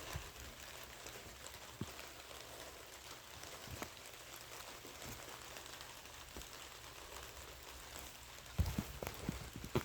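Light rain pattering: a steady hiss with scattered drop ticks, and a run of louder taps near the end.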